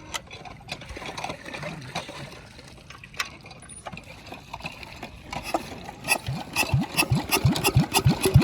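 Small engine turning over with irregular knocks, then from about six seconds in firing in evenly spaced beats that quicken to about three a second as it picks up speed.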